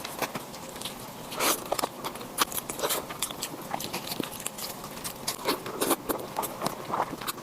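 Biting and chewing into a whole chicken: irregular crunchy, crackling clicks and snaps.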